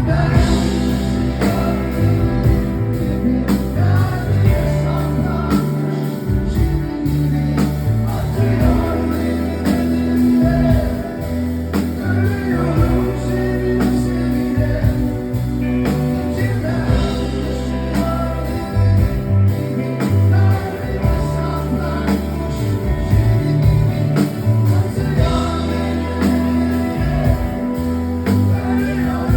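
Live rock band playing a song on stage, with drums, bass and guitar, and a voice singing at times over it.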